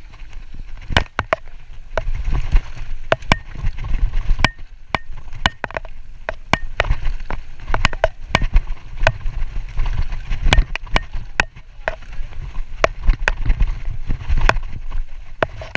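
Mountain bike rolling fast down a rough dirt trail: a steady low rumble of tyres over the ground, broken by frequent irregular sharp clatters and knocks from the bike bouncing over rocks and roots.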